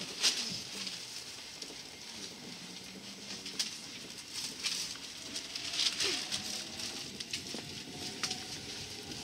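Cabin of a 205-series electric commuter train pulling out of a station and gathering speed: a steady running hiss with scattered sharp clicks, the loudest about a quarter second in, and a faint motor whine rising in pitch over the second half.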